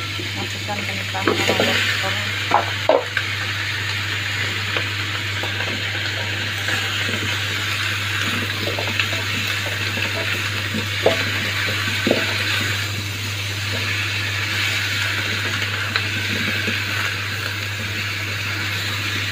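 Chicken pieces frying in oil in a wok: a steady sizzling hiss, with a few knocks and clatters in the first few seconds as chunks of potato and carrot go into the pan, over a steady low hum.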